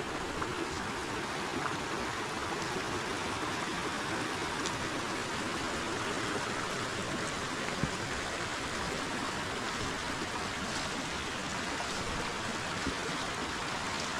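Forest river flowing, a steady, even rush of running water, with a few faint ticks here and there.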